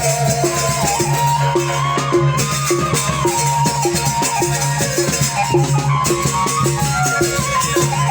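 Sasak ale-ale ensemble music playing: a wavering melody over steady percussion strokes about twice a second and a low held drone.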